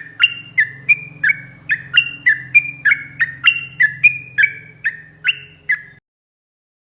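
Yellow-vented bulbul (trucuk) singing a long rapid run of loud, clipped notes, about three a second, alternating higher and lower in pitch. The song cuts off suddenly about six seconds in.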